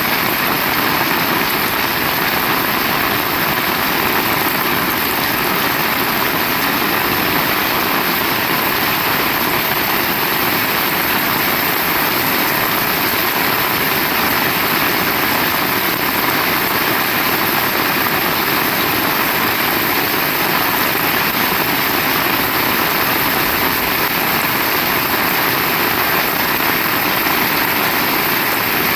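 Heavy rain falling steadily, a loud, even hiss with no let-up or thunder.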